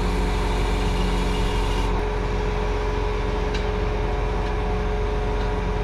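Large diesel tractor engine running steadily at idle, with an abrupt change in its tone about two seconds in.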